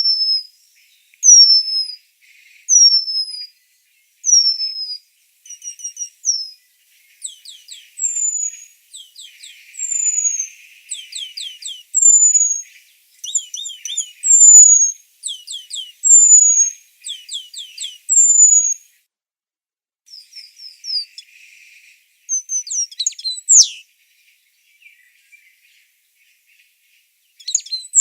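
Eurasian penduline tit calling: a series of thin, high, falling whistles, at first about one every second and a half, then closer together, with short quick notes mixed in. The calls thin out after about 24 seconds, with one more near the end.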